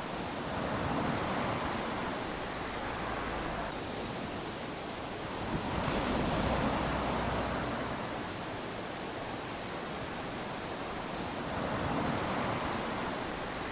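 Small waves lapping onto a sandy shore, a steady wash that swells as each wave breaks and runs up the sand, three times, about every five to six seconds.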